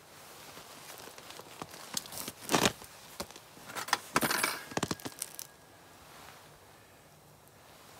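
Small metal parts and tools clinking and rattling as they are handled, in two clusters of sharp clicks and knocks, one about two seconds in and a longer one around four to five seconds in.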